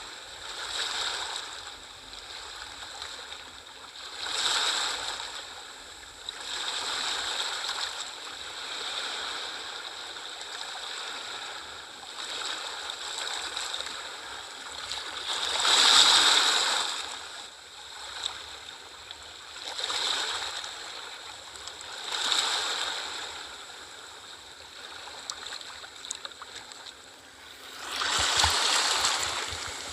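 Ocean waves washing in, one surge after another every few seconds, the biggest about halfway through.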